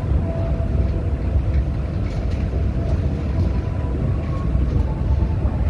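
Passenger train moving slowly, heard from inside the carriage: a steady low rumble with a few faint clicks.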